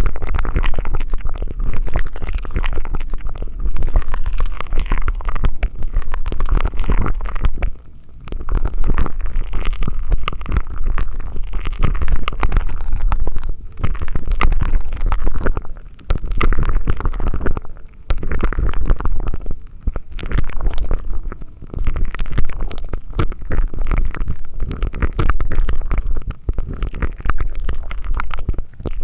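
Close-miked ASMR mouth sounds: wet sucking through a straw with the crackle of popping candy, in runs of a few seconds broken by short pauses.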